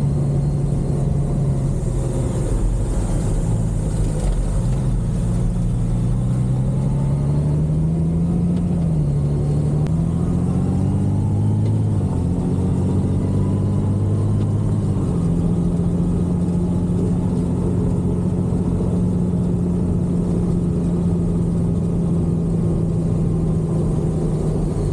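Honda Gold Wing's flat-six engine running under way on cobblestones over a constant low rumble. Its pitch dips and climbs several times between about 5 and 15 seconds in as the speed changes, then holds steady.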